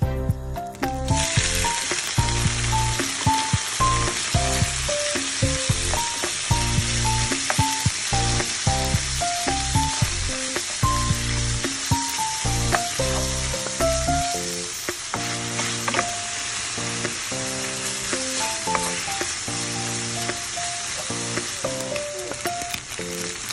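Marinated pork frying in hot oil, a steady loud sizzle that starts about a second in as the pork goes into the pan. Background music plays underneath throughout.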